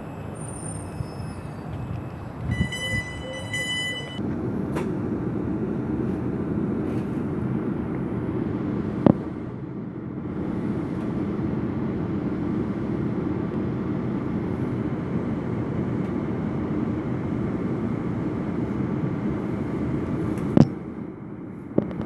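Electronic beeping at first, then the steady low rumble of an electric passenger train running, heard from inside the carriage, with a couple of sharp clicks.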